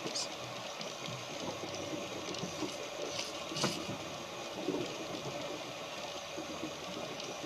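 Small boat's outboard motor running steadily, with a few light clicks, one sharper about halfway through.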